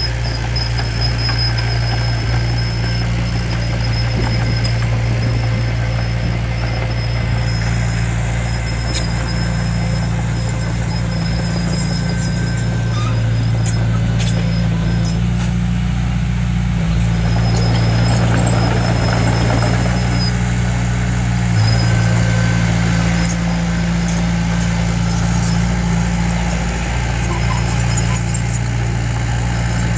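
Heavy diesel engine of earthmoving machinery running steadily, with a thin high squeal that comes and goes.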